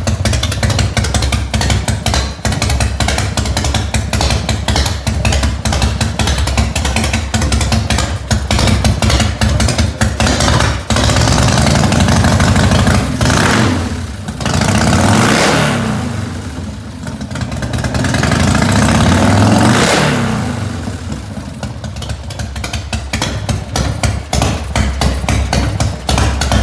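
Harley-Davidson 1340 Evolution V-twin, bored .030 over, with ported heads, an Andrews EV59 high-lift cam and Vance & Hines Straight Shots exhaust, running warm. It idles with a choppy, uneven lope, is revved up and let fall back a few times in the middle, then settles back into the loping idle near the end.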